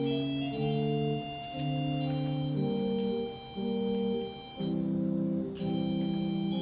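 Organ playing slow, held chords, with the chord changing about every second.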